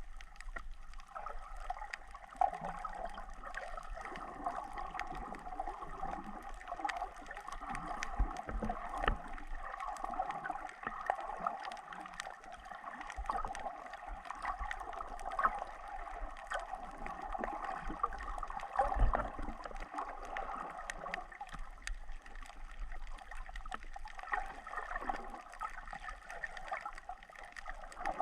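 Water sloshing and gurgling, with scattered faint clicks and a few low thumps.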